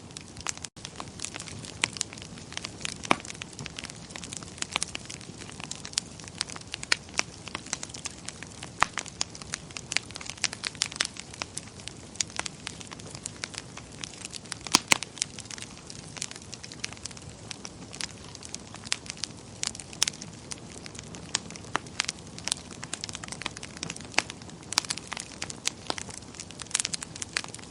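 Wood fire burning in a fireplace: a soft steady hiss with irregular sharp crackles and pops from the burning wood.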